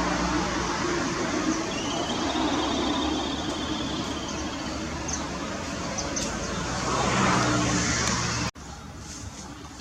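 Steady road traffic noise with engine hum from passing vehicles. It cuts off abruptly near the end, leaving quieter outdoor background.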